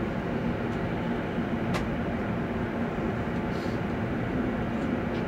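JR West 281 series electric multiple unit running, heard from inside the cabin as a steady low rumble, with one short click about two seconds in.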